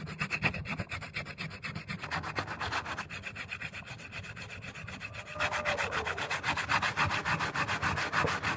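Hand sanding a fiberglass-and-resin repair on a motorcycle fairing with coarse sandpaper, in quick, even back-and-forth strokes. The strokes grow louder and harsher about five seconds in.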